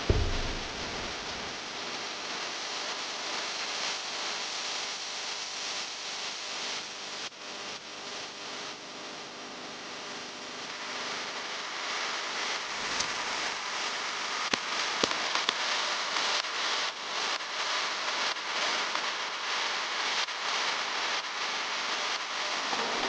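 Crinkling and rustling of plastic packaging being handled, with many small irregular crackles and clicks that get busier and louder in the second half.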